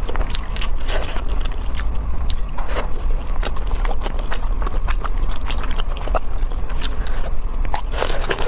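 A person chewing and biting food close to the microphone: wet, irregular crackles and clicks of mastication, over a steady low hum.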